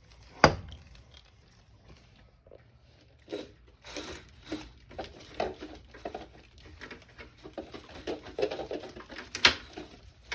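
Household handling noises: a sharp knock about half a second in and another near the end, with scattered light clicks, clatter and rustling between them.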